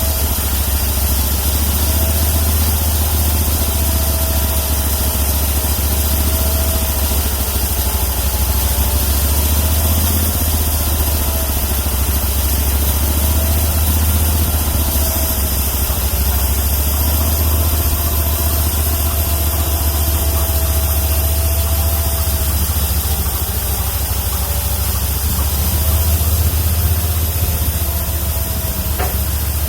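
Homemade bandsaw mill's 31 hp engine running steadily, with a faint thin tone above it that wavers slightly in pitch.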